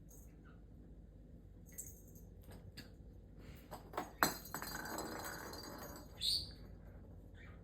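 Light clinks, then a sharp knock about four seconds in, followed by about two seconds of jingling, ringing rattle, like a pet bird's metal or bell toy being knocked about. A short high-pitched sound comes a little after six seconds.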